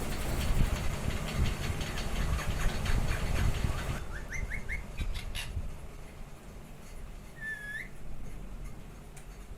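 Parrots calling: a quick run of four short rising chirps, then a few clicks and one curved squawk a few seconds later. Before that, a low rumble with rapid clicking runs until the sound changes abruptly about four seconds in.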